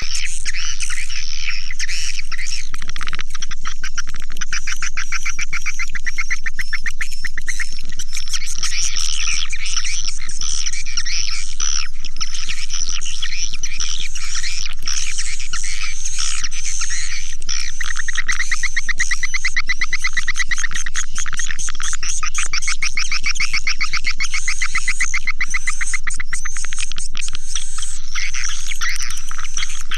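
Recorded swiftlet calls: a dense chorus of high chirps and fast buzzing trills of clicks that overlap without a break, over a low steady hum.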